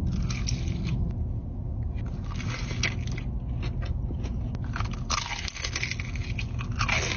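Crunchy bites and chewing of crispy fried chicken, picked up close, with a series of short crackling crunches over a steady low hum.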